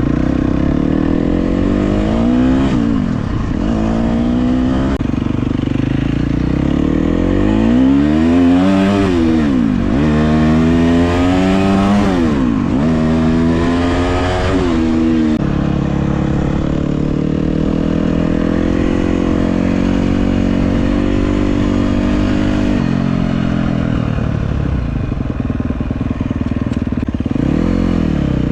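KTM 250 SX-F four-stroke single-cylinder dirt bike engine being ridden, its revs climbing and dropping again and again, then holding a steadier pitch for several seconds before rising and falling once more near the end.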